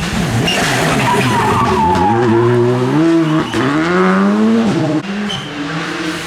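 Rally car engine revving hard, its pitch climbing, dipping briefly about three and a half seconds in, climbing again and dropping sharply near five seconds, with tyre noise from the car sliding on the road.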